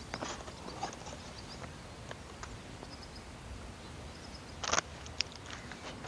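Irregular small clicks and taps, with one louder, short crackling burst about three-quarters of the way through.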